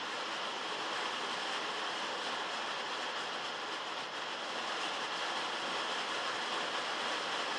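Heavy rain falling on metal, heard from inside a log shed: a steady, even hiss.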